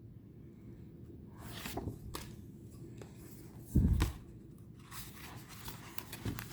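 Paper tarot cards being handled on a table: light rustling and small clicks as cards are slid and set down, with one louder dull low thump about four seconds in.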